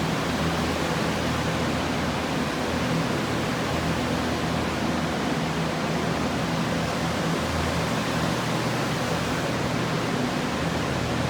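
Steady whooshing of blower fans running, with a constant low hum underneath, typical of drying equipment set up on a flood-damaged job.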